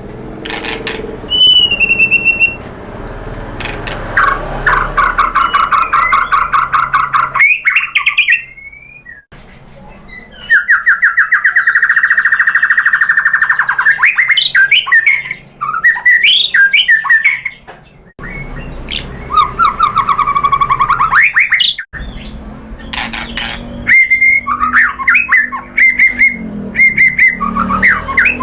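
White-rumped shama (murai batu) singing a varied, loud song of rapid trills and rattling phrases mixed with whistled glides. The song breaks off suddenly several times and starts again.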